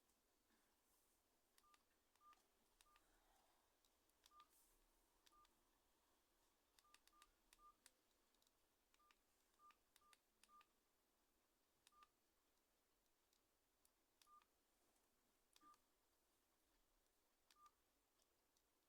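Faint keypad key-press beeps from a Nokia N95 8GB mobile phone: about sixteen short single-pitch beeps, each with a small click, coming irregularly as keys are pressed one after another.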